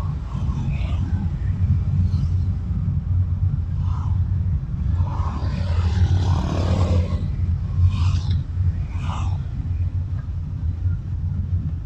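Car driving on a busy road, heard from a dashcam: a steady low rumble from the road and engine, with the short rush of other traffic passing several times, the loudest about five to seven seconds in.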